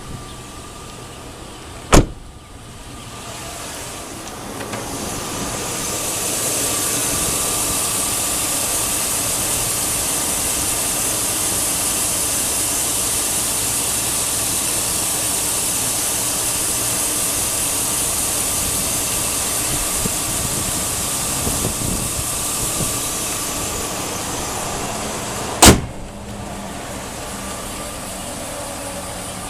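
Steady rushing mechanical noise from the 2002 Chevy Avalanche. It builds over a few seconds, holds for about twenty seconds and drops back. A sharp click comes before it and another after it.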